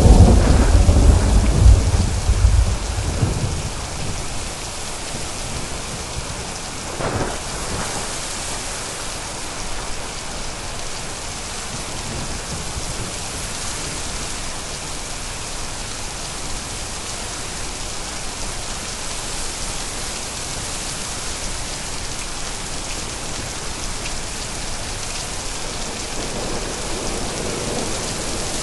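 Thunderstorm: steady rain with rolling thunder. A loud low rumble at the start dies away over about three seconds, a short crack of thunder comes about seven seconds in, and another rumble builds near the end.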